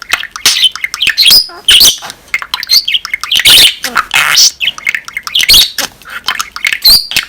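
Budgerigar warbling: a fast, continuous chatter of chirps, clicks and harsh squawks.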